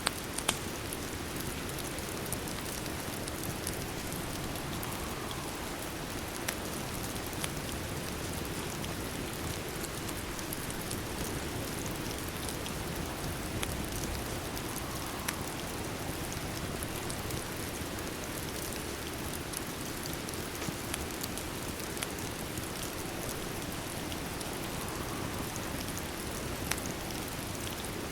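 Steady rain falling, with scattered sharp crackles of a wood fire.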